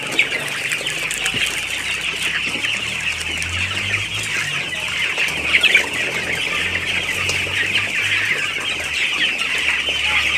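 A large flock of young chickens, about two weeks old, peeping and chirping all together in a dense, continuous chorus.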